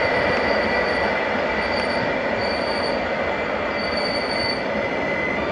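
Koleje Mazowieckie Stadler Flirt electric multiple unit running past on the platform track: steady wheel-on-rail rumble under a constant whine, with a high wheel squeal that comes and goes in short spells about once a second.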